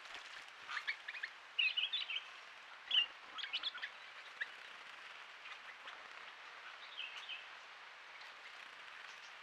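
Wild birds calling at a forest pool: short chirps and call notes in several clusters through the first half and again near the end, over a faint steady background hiss.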